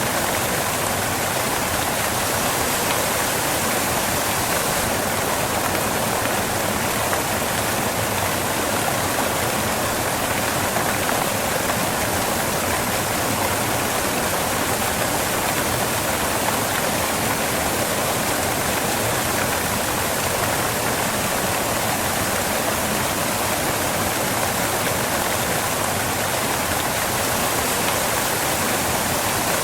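Waterfall water crashing onto rocks: a steady, even rush without breaks.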